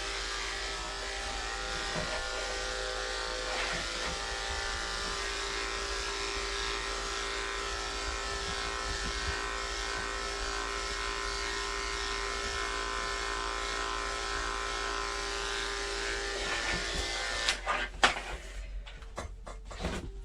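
Andis electric pet clippers running steadily as they shave matted fur from a cat's inner thigh, a steady hum that cuts off near the end, followed by a few sharp clicks.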